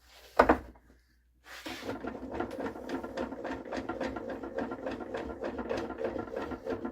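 Wood being rubbed with quick, rhythmic scraping strokes, like hand sanding, starting about a second and a half in. A short, sharp sound comes just after the start.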